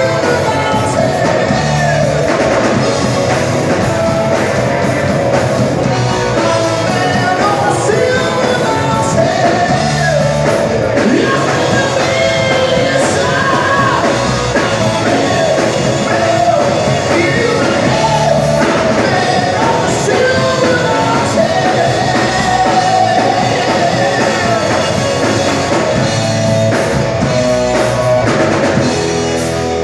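Rock band playing live with a lead singer, a drum kit and guitars, loud throughout.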